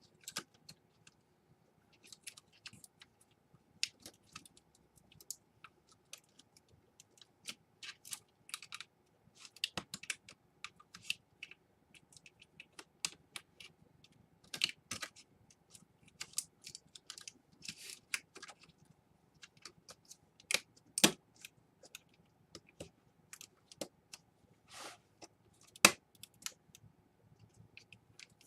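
Irregular small clicks and taps of plastic laptop parts and small tools being handled and fitted, a few sharper snaps among them, over a faint steady hum.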